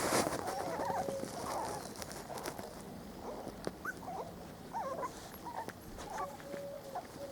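Four-week-old Spanish Water Dog puppies whimpering and squeaking: many short high cries scattered throughout, with a couple of longer steady whines, one near the start and one near the end, over light ticks and rustling.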